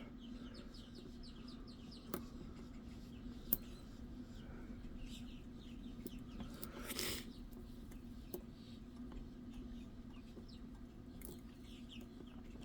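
Faint birds chirping in the background over a steady low hum, with a few sharp metal clicks from lock-picking tools working a wafer lock and one louder brief sound about seven seconds in.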